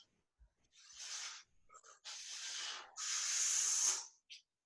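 A person breathing hard through the mouth during a heavy squat set: three forceful hissing breaths, about a second apart.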